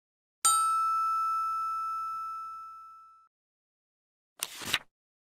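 A single chime rings about half a second in, one clear tone with higher overtones, fading out over about three seconds: a read-along page-turn signal. Near the end comes a brief, faint noise.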